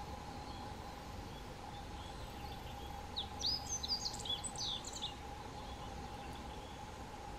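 A small songbird sings one quick phrase of high chirps and whistles about three seconds in, lasting about two seconds, over steady outdoor background noise with a faint hum.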